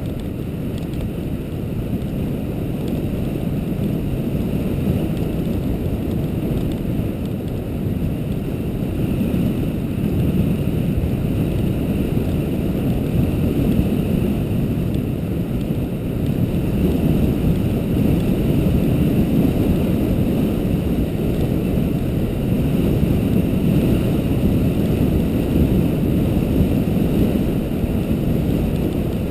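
Steady low rumble of a vehicle travelling along a road, with wind noise on the microphone.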